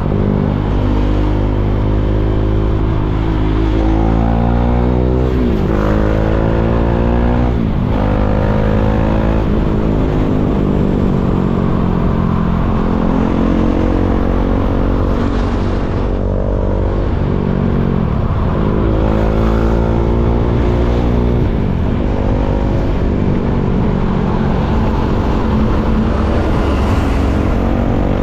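KTM Duke 390's single-cylinder engine pulling away and accelerating, the revs rising and dropping back several times as it shifts up through the gears, with stretches of steadier running between.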